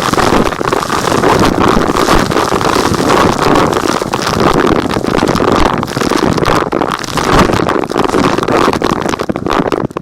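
Vacuum cleaner running loudly and steadily, with many small crackles of gritty debris being sucked up; the motor cuts off right at the end.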